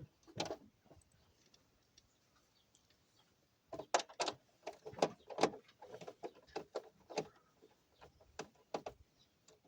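Irregular clicks and light knocks of small hard parts, screws and plastic dash pieces, being handled and taken out. There is a single click near the start, then a quick busy run of them from about four seconds in.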